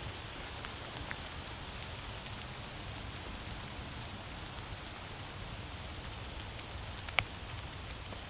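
Steady rain falling, with scattered drop ticks and one sharp click near the end.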